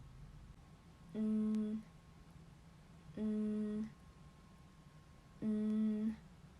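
A woman's voice humming a nasal consonant sound, a held "mmm" or "nnn" demonstrated on its own, three times, each held for well over half a second at a steady pitch.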